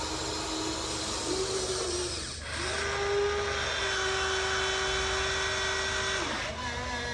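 Huina 1593 RC toy excavator's small electric motors and gearboxes whining as they drive the machine. The whine cuts out briefly about two seconds in, comes back at a slightly higher steady pitch, and drops to a lower pitch near the end.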